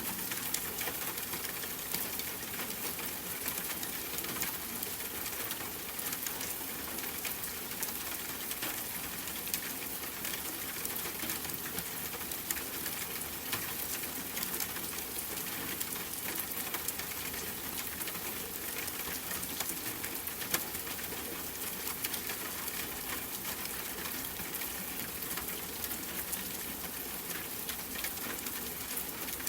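Steady rain, an even hiss dotted with many small drop ticks, over a faint low city hum.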